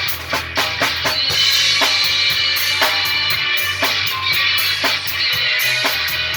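Instrumental passage of a rock and roll song, with a drum kit to the fore: steady bass drum and snare hits over sustained band instruments.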